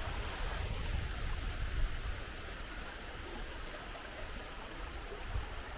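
Steady rush of a stream flowing over a small waterfall, with low rumbling on the microphone and a thump about two seconds in.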